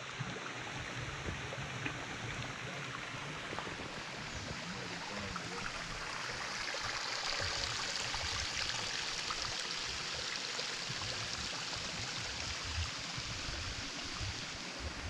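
Steady rushing of water, even and unbroken, growing a little louder in the middle.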